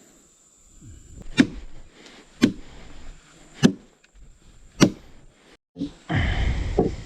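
Four sharp knocks or strikes, about a second apart, followed near the end by a louder burst of rustling noise.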